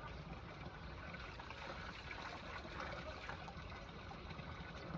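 Steady sound of running water, like a small stream trickling.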